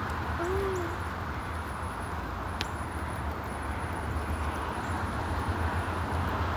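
Steady hiss of light rain falling outdoors, over a low rumble. Under a second in comes one short hoot-like note, and a single sharp click follows about two and a half seconds in.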